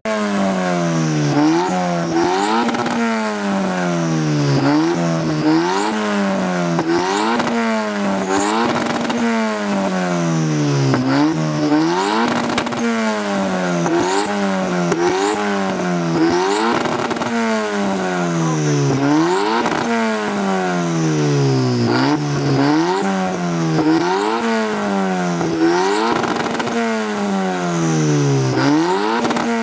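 A car engine revved over and over, its pitch climbing quickly to a brief peak and falling back, about every two seconds.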